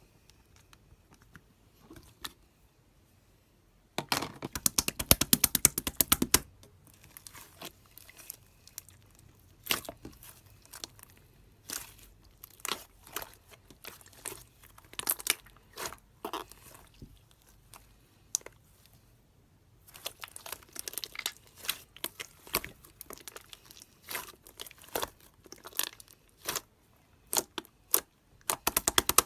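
Clear slime being squished and poked by hand, giving rapid trains of small clicking pops. These come in a dense run about four seconds in, then scattered pops, and another dense run through the last third.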